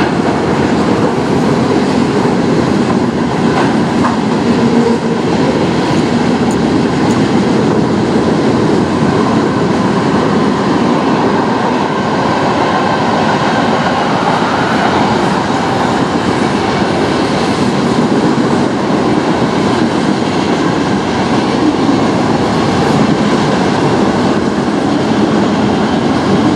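Freight cars of a mixed manifest train (autoracks, tank cars and boxcars) rolling steadily past on the rails, steel wheels running over the track in a loud, continuous clatter.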